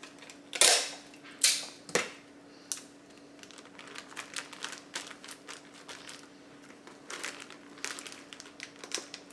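Sealed plastic bag of dry biscuits being struck and crushed: two loud, sharp hits about a second apart, a smaller one just after, then a run of quieter crackling and crunching as the plastic and biscuit pieces are pressed.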